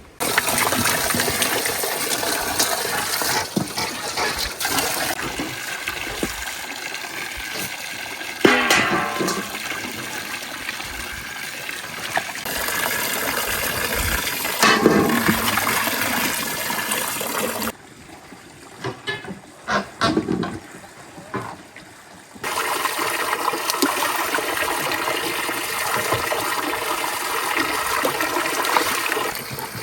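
Water running or pouring in a steady rush that cuts off abruptly and starts again a few seconds later. During the quieter gap there are a few scattered knocks.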